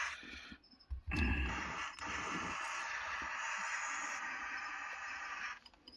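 Model railroad locomotive running with a steady hiss-like sound that cuts out briefly about half a second in, picks up again, and stops near the end: the locomotive stalling on dirty track through the switches. A couple of dull knocks come around the first and second seconds.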